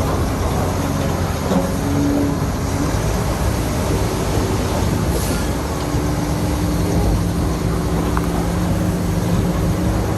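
Heavy diesel earth-moving machinery running steadily, with an engine note over a continuous rumbling noise.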